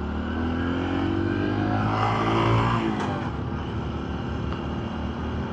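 Honda motorcycle engine under way, its pitch rising as it accelerates for about two and a half seconds, then falling as it slows, over steady road and wind noise.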